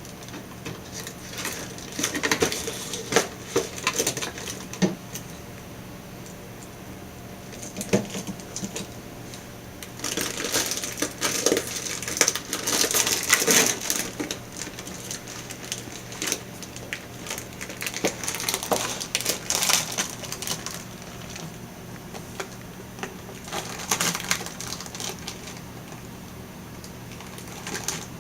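A cat rummaging for food: irregular bursts of clattering, rustling and crinkling as it noses and paws through things, in several spells with short pauses between, over a steady low household hum.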